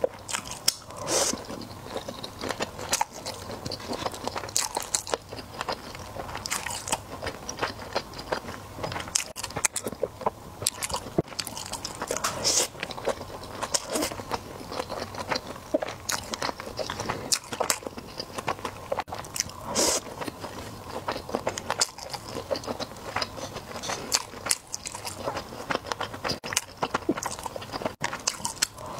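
A person chewing and biting into sushi rolls: wet mouth sounds with frequent sharp, irregular clicks and crunches.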